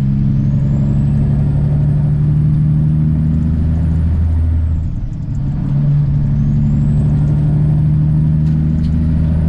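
Peterbilt 379 semi-truck's diesel engine pulling hard under acceleration, with a high turbo whine rising over it. About five seconds in the power drops off as the driver shifts his 18-speed manual gearbox up a gear, then the engine pulls and the whine rises again.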